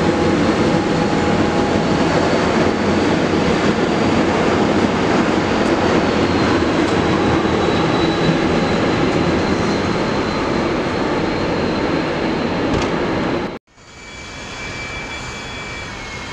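A train passing close by gives a loud, steady rush of wheels on rails with a faint high whine. The sound cuts off abruptly about thirteen seconds in and gives way to a quieter steady engine sound carrying high whining tones.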